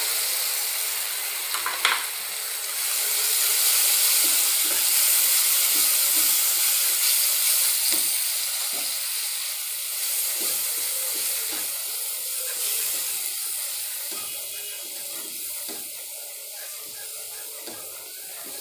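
Ground tomato sizzling in hot oil with onions in a non-stick kadai, stirred with a wooden spatula. The sizzle swells a few seconds in, then gradually dies down, with a sharp click near two seconds.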